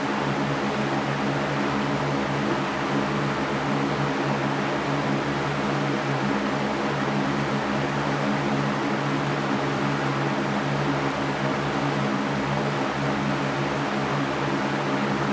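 Electric fan running steadily: a continuous even rush of air with a low, steady motor hum beneath it.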